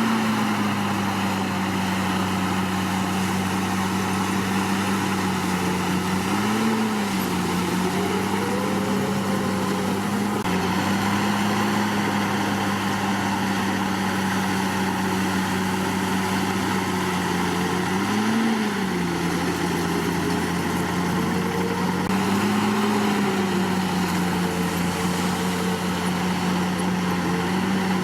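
Komatsu D61PX bulldozer's diesel engine running steadily under load, its pitch rising briefly three times as it revs: about a quarter of the way in, about two thirds in, and again soon after.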